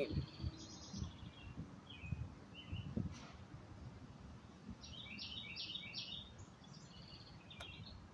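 Songbirds singing in short, repeated chirping phrases, several times over. There are a few soft low puffs in the first three seconds.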